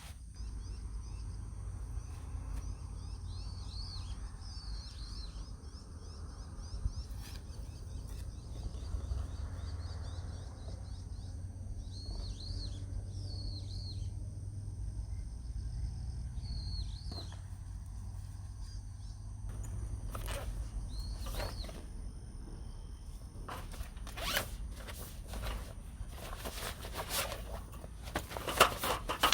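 Wind buffeting the microphone in a steady low rumble, while a small bird gives short two-note chirps several times. Near the end, a run of sharp clicks and rattles from gear being handled.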